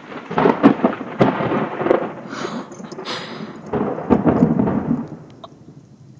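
Thunder rumbling and cracking, with several loud peaks over about five seconds before it rolls away and fades.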